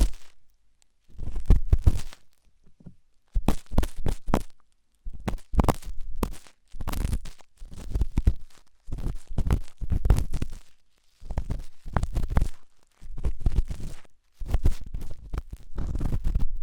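Close-up ASMR ear cleaning: an ear-picking tool scraping and rubbing hard in the ear, in short crackly strokes with a deep rumble and brief pauses between them, about one every one and a half to two seconds.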